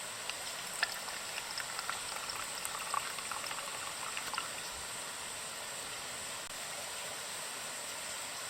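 Water flowing and splashing steadily, with small sharp splashes and drips in the first half.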